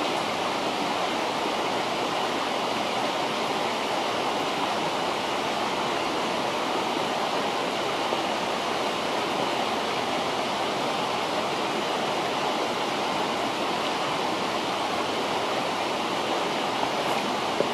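River water rushing steadily, with one or two faint snaps near the end.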